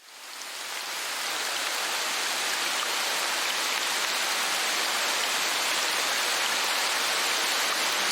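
Steady rain falling, an even hiss with scattered drop patters, fading in over about the first second.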